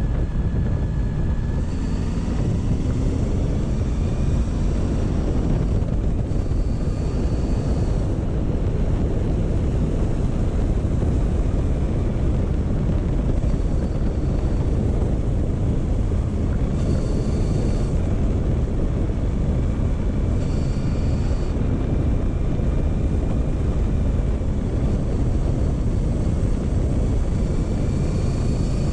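Motorcycle engine running at a steady, easy pace under a heavy, low wind rumble on the microphone, its note drifting slightly up and down now and then.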